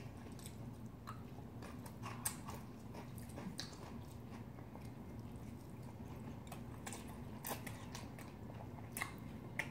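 Quiet eating sounds: chewing and wet mouth sounds from two people eating spicy cold noodles, with a few short sharp clicks scattered through, over a faint steady hum.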